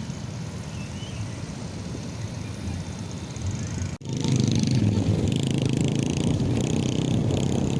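Motorcycle engine and road noise while riding, steady. About four seconds in it cuts out for an instant and comes back louder.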